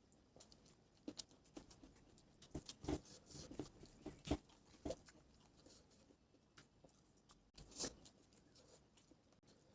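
Eating sounds: chewing with soft wet smacks and small crunches in short, irregular bursts, busiest a few seconds in and again near the end.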